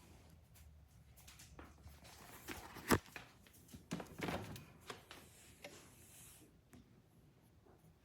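Light handling noises in a small room: scattered clicks and brief rustling, with one sharp click about three seconds in.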